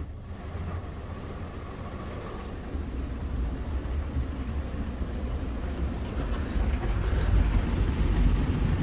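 Ryko Softgloss XS 2 in-bay automatic car wash working over the car in its soap stage: a steady low rumble with spray hiss, growing louder over the last few seconds.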